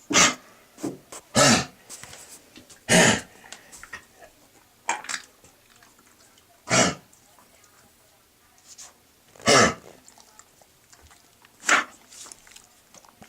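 Dog coughing in a fit: six loud, short coughs with a few softer ones between, spaced one to three seconds apart. This is a long-standing, recurring cough that sounds like kennel cough.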